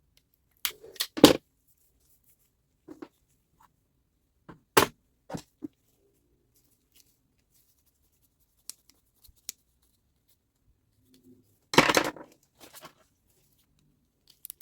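Workshop handling sounds of parts and tools on a bench: a scattering of sharp clicks and knocks and short scraping rustles, loudest about a second in, near the middle and a longer scrape past two thirds of the way, with silence between.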